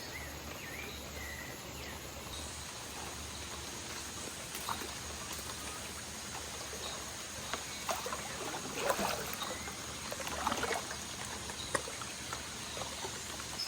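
Water flowing steadily in a hot spring pool, with a few brief sharp splashes or knocks about two-thirds of the way in.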